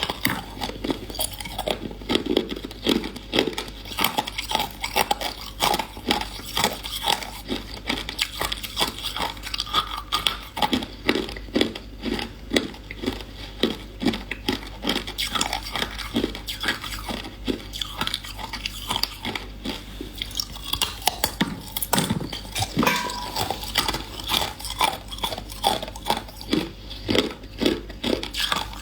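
A person biting and chewing hard ice, a dense, irregular run of sharp crunches and cracks, several a second.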